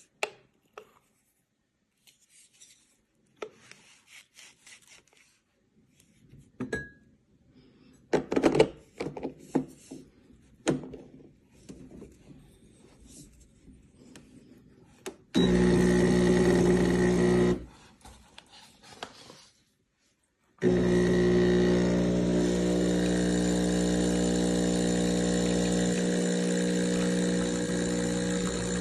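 Scattered clicks and knocks, then the CHULUX Slim espresso machine's pump running with a loud, steady buzz. It runs for about two seconds just past the middle, stops, and starts again for the last eight seconds.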